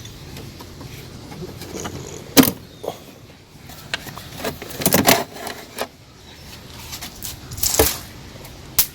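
Hand-handling noise from a Mercury console-mount throttle and shift control as the cable ends are worked off their pins: scattered clicks, knocks and rattles, with the sharpest knocks around a third of the way in and near the end.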